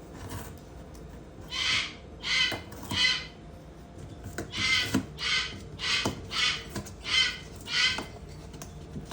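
Cockatoo giving a run of about ten short, harsh calls, one every half second to a second, an upset bird's protest.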